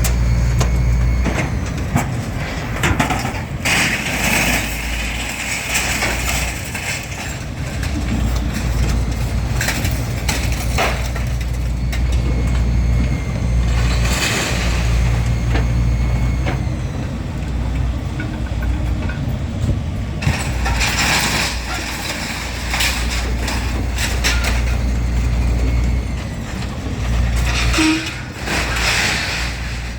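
Large engine running steadily at a low, even note, with scattered metallic knocks and clatter over it.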